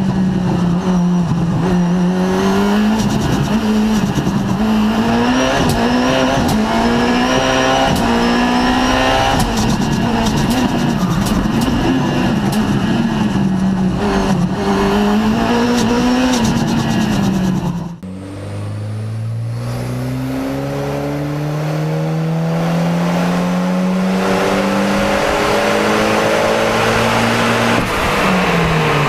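Four-cylinder performance car engine driven hard at high revs, the note rising and falling with throttle and gear changes and punctuated by sharp cracks. About two-thirds of the way through it cuts to a car accelerating hard, its engine pitch climbing steadily through one long gear.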